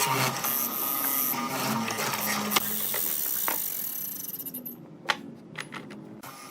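Power tool motor running, then winding down and stopping about four to five seconds in, followed by a sharp knock and a few light clicks.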